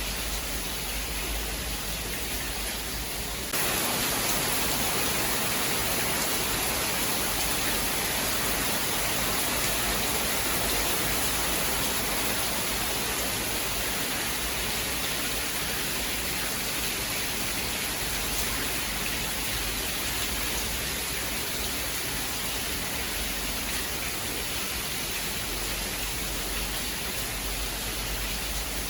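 Steady rain with no thunder. About three and a half seconds in, the sound switches abruptly to a louder, brighter hiss, which then holds steady.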